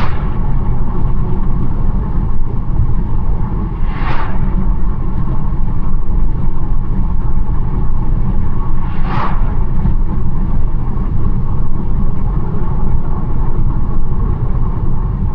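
BMW 1 Series driving along a country road: a steady low rumble of engine and tyres, with three brief whooshes, at the start, about four seconds in and about nine seconds in.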